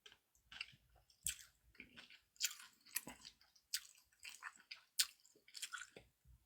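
A person chewing food close to the microphone: quiet, wet mouth smacks and clicks at irregular intervals, the eating sounds of a naengmyeon and dumpling mukbang.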